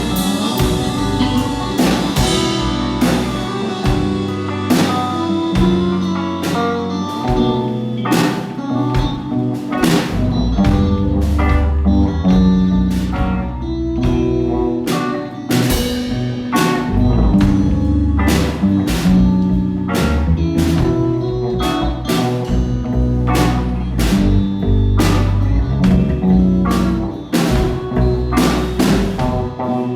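Rock band playing a song: drum kit with regular cymbal and drum hits, electric guitar and sustained low bass notes.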